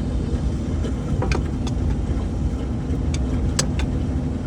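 Sharp metallic clinks and knocks of hand tools and a drain tub being handled under a Caterpillar D6R bulldozer, a few in a row, over a steady low rumble.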